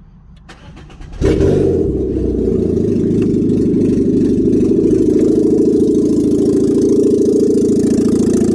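Peugeot 307 car engine starting about a second in, catching at once and settling into a steady idle.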